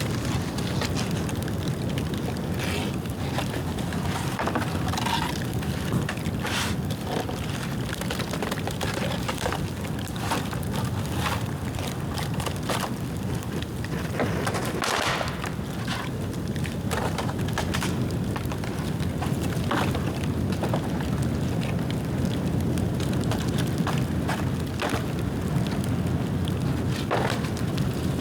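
Dead, dry bamboo burning in an open bonfire: a steady low rumble of fire with scattered crackles and sharp pops, the loudest pop about halfway through.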